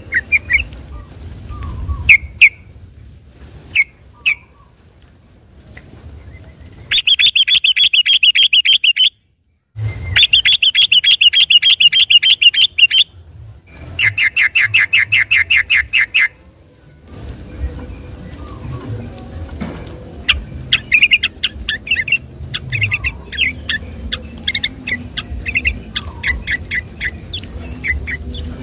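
Yellow-vented bulbul (trucukan) singing: a few short calls, then three loud bursts of very rapid rolling notes lasting about two seconds each, then a run of quick chirps. The audio cuts out briefly between the first two bursts.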